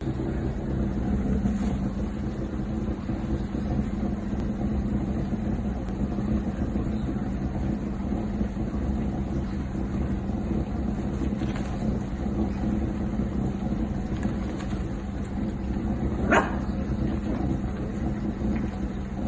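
A steady mechanical hum, like a motor or engine running at constant speed, with one short, sharp louder sound about sixteen seconds in.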